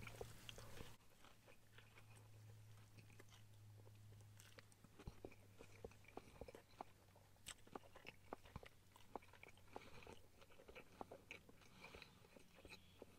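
Faint chewing of a mouthful of steak sandwich, with soft irregular mouth clicks that come more often from about five seconds in, over a steady low hum.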